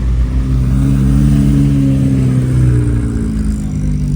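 A car engine pulls up in pitch and loudness for about a second and a half, then eases back down over the next two seconds.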